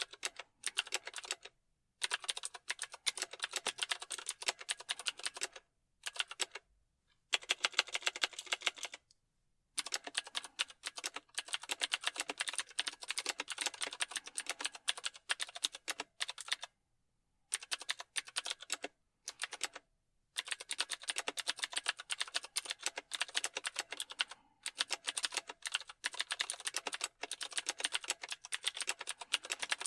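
Typing on a computer keyboard: fast runs of keystrokes clicking in bursts of a few seconds, broken by short pauses.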